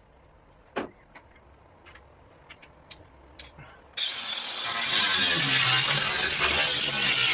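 A few light clicks and taps, then a power tool starts abruptly about four seconds in and runs loudly with a hissing, grinding noise over a low hum, working on the Scout's sheet metal.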